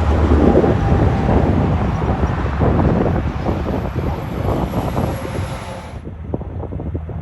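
Semi truck passing on the road, a loud rough engine and road rumble with wind buffeting the microphone; it slowly fades, then builds again near the end as more traffic comes.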